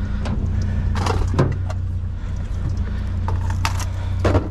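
A vehicle engine idling with a steady low hum, while objects knock and clatter a few times as things are moved and dumped out.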